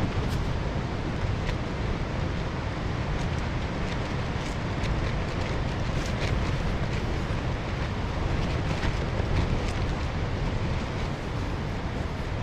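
Strong wind blowing in heavy rain: a steady rushing noise with a deep rumble of wind buffeting the microphone, and faint scattered taps of raindrops.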